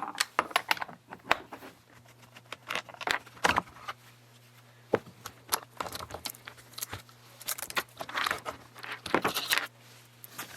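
Irregular metallic clinks and clatter of hand tools and small metal parts as a Stihl MS460 chainsaw is taken apart on a workbench.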